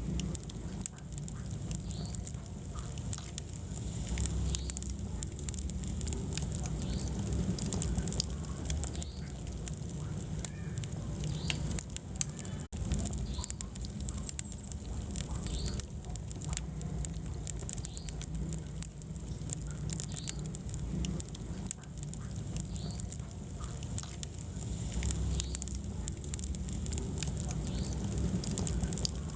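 Wood fire burning in a fireplace: constant crackling with many small, sharp pops over a low steady rumble of flames, broken by a momentary dropout about thirteen seconds in.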